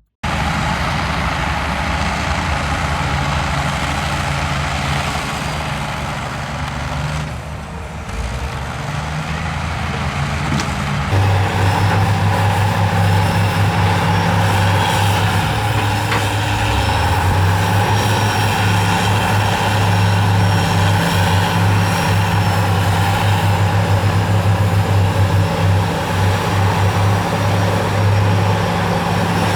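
Heavy diesel earthmoving machinery running under load, a bulldozer and excavator at work. The engine note gets suddenly louder and steadier about eleven seconds in, then dips and comes back up in pitch a few seconds later.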